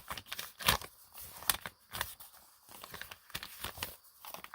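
Irregular light clicks and taps with some paper crinkling as acrylic paint is worked onto a gel printing plate and paper, the sharpest taps about a second in.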